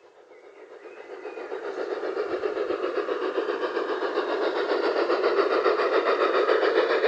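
Battery-powered LGB G-scale model locomotive running on its garden track, its on-board sound unit and drive making a quick, even rhythm. It grows louder over the first few seconds, then holds steady.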